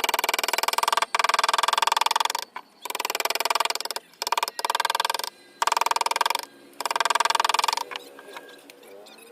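A power carving tool cutting wood in repeated short bursts of about a second each, with brief pauses between them. The sound is a fast buzzing, and it quietens near the end.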